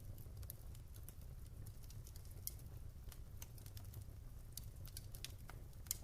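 Wood fire crackling in a fireplace: irregular sharp pops and snaps over a steady low rumble, with two louder pops, one about two and a half seconds in and one near the end.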